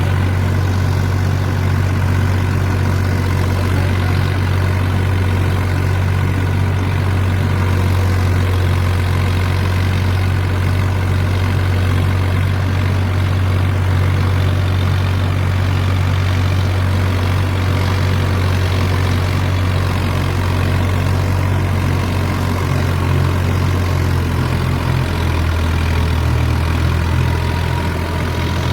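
Mahindra 265 tractor's diesel engine idling steadily with a low, even hum; about 25 seconds in, the engine note drops slightly.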